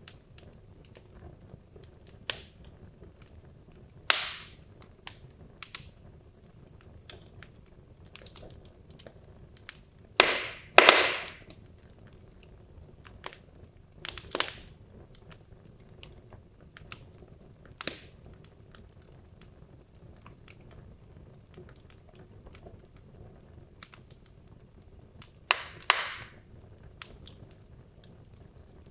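Wood logs burning in a fireplace: scattered small crackles and pops over a faint steady hiss, with a few louder sharp cracks about 4, 11, 14 and 26 seconds in.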